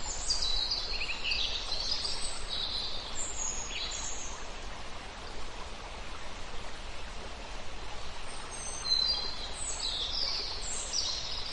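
Several songbirds singing in clusters of high chirps and trills over the steady rush of a river, with a lull in the birdsong in the middle.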